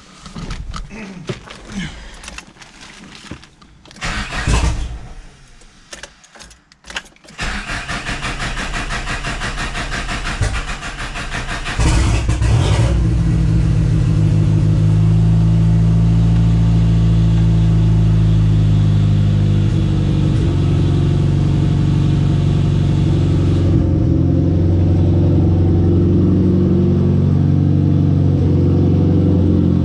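A few knocks and handling noises, then a Chrysler Conquest's turbocharged 2.6-litre G54B four-cylinder cranking for about four seconds before it catches. It then idles steadily, with a slight change in pitch about twelve seconds after it starts.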